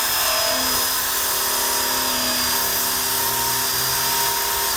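Power drill with a wire brush scrubbing rust off the Honda Cub's steel undercarriage, running at a steady speed with a high whine over a dense scratching hiss.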